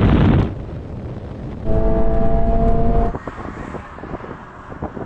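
Toyota GT86 and GR86 sports cars running flat out on a drag strip, heard in short edited cuts: a loud rush of engine and wind noise that stops about half a second in, then a steady engine note held for over a second, then quieter running with light ticking.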